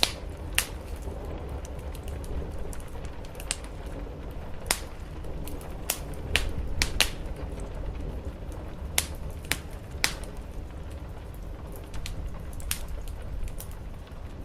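Wood fire crackling in a fireplace: irregular sharp pops and snaps, about a dozen, over a steady hiss of rain and a low rumble.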